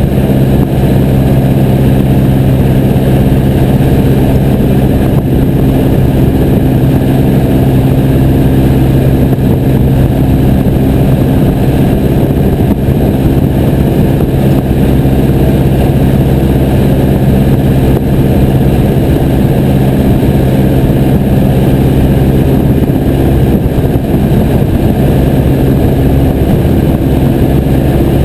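Piper J3 Cub's engine and propeller running steadily at an unchanging speed, loud and droning.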